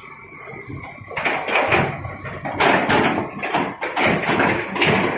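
Small stones clattering and tapping in quick irregular knocks, starting about a second in.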